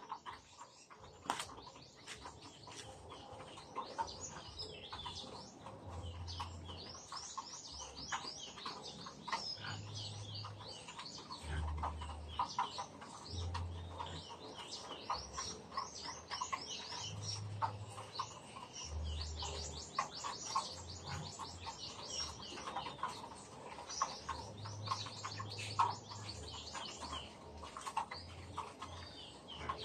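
A dense chorus of short, high bird chirps, many overlapping one another, with faint low rumbles at intervals.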